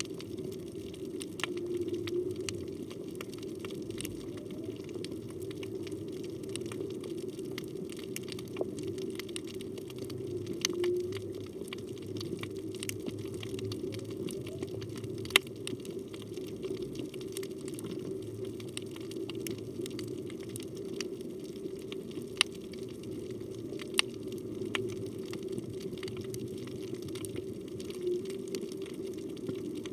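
Underwater reef ambience picked up by a phone underwater: a steady low hum and hiss, with scattered sharp clicks throughout. A few faint short tones come and go, about three times.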